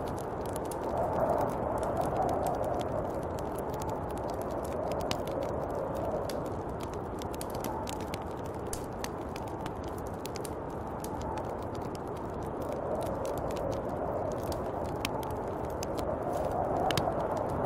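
Snowstorm wind blowing steadily, swelling and easing in gusts every few seconds, with scattered faint crackles and ticks over it.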